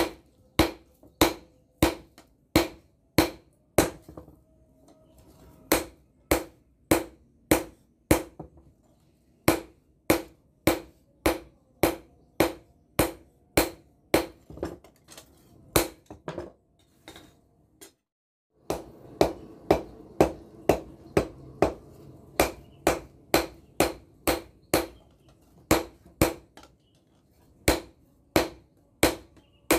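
Hammer blows on an anvil, forging bearing steel into a blade: sharp, ringing strikes in a steady rhythm of a little under two a second, broken by a few short pauses.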